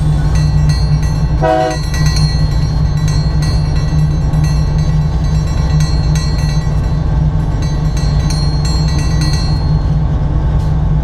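Diesel freight locomotive running, heard from the cab: a steady low engine drone with rail noise and faint ticking, and a brief horn blast about one and a half seconds in.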